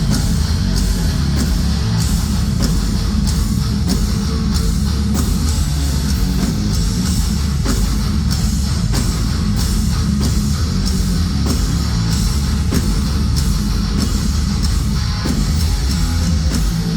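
Heavy metal band playing live through a concert PA: distorted guitars and bass over a steady, heavy drum beat.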